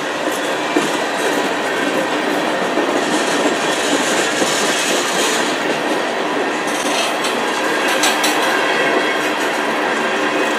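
Freight cars rolling past at close range: a steady rumble of steel wheels on rail with rhythmic clickety-clack from the wheels over rail joints. A higher wheel squeal rises a few seconds in, and a run of sharp clacks comes about seven to eight seconds in.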